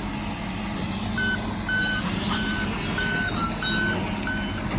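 A heavy diesel logging machine's engine runs steadily while a backup alarm beeps at one pitch, starting about a second in and sounding roughly three times every two seconds: the machine is reversing.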